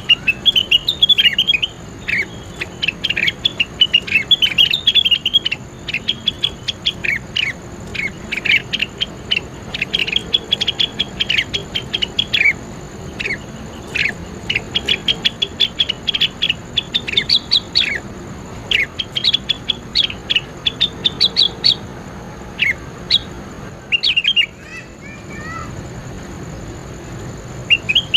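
Cucak wilis, a leafbird, singing a fast run of short, sharp high notes with brief pauses. The singing stops about three quarters of the way through, a few softer chirps follow, and the singing starts again right at the end.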